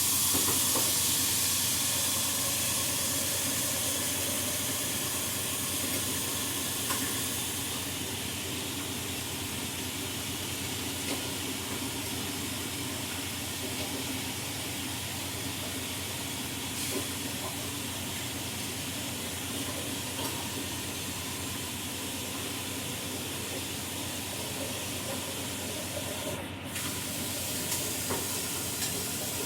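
Food sizzling in a hot pan: a steady frying hiss, loudest at first and settling over the first several seconds, with a few faint knocks.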